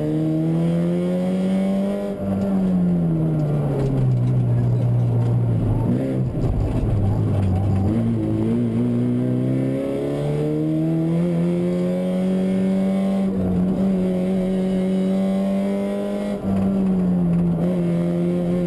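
Fiat Punto 1.8 rally car's four-cylinder engine at race pace, heard from inside the cabin. The revs fall away about two seconds in and stay low for a few seconds, climb again from about eight seconds, hold high for several seconds, then drop near the end, as the car lifts off for corners and accelerates between them.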